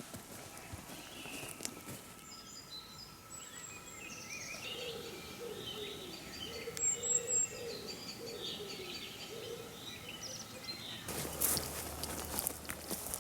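Several wild birds singing in a forest, with chirps and warbles over a row of lower repeated calls in the middle. About eleven seconds in, footsteps rustling on the forest floor start up again.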